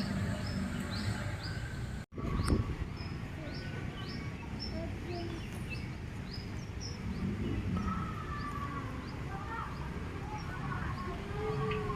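A small bird chirping over and over, short high chirps about twice a second, over a steady low outdoor murmur. The sound cuts out for a split second about two seconds in.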